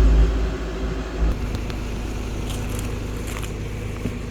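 A car engine hum, low and steady, that drops in level about a second in and then carries on more quietly, with a few faint clicks.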